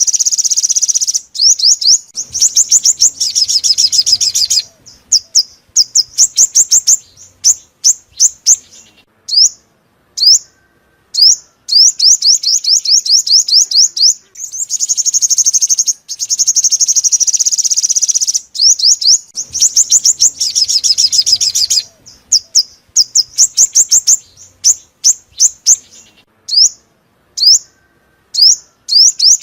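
Sunbird song: fast, high, thin trills alternating with runs of short sweeping chirps, loud and near. The same sequence of trills and chirp runs comes round again about halfway through, as in a looped lure recording.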